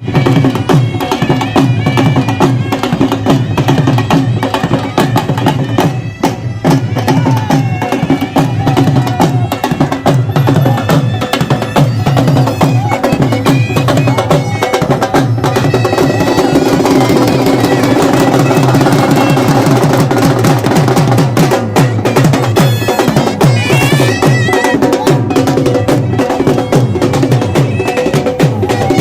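Pipe-and-drum band music: a reedy melody over a steady held drone, with fast, busy drumming.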